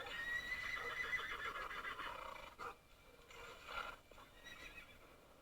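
An animal's long, high-pitched cry of about two seconds, followed by three shorter cries that fade.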